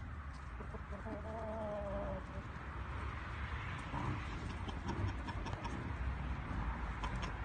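A faint, drawn-out chicken call lasting about a second, slightly falling in pitch, about a second in, over a steady low hum and background noise.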